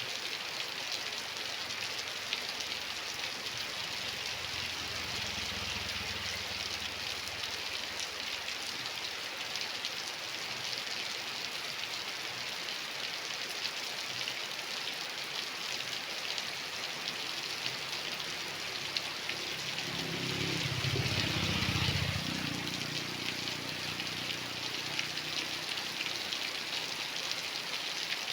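Steady rain falling, with fine pattering drops. A low rumble swells and fades about twenty seconds in.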